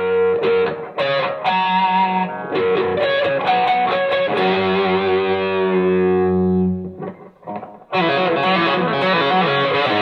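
Electric guitar played through a Donner Morpher distortion pedal (a Suhr Riot–style circuit): distorted chords and notes, with one chord left to ring out and fade about halfway through. After a short gap, playing starts again near the end.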